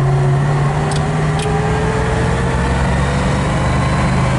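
1965 Ford Mustang's 289 V8 running steadily in the cabin while the heater blower fan runs, with a faint whine slowly rising in pitch. Two light clicks come about a second in.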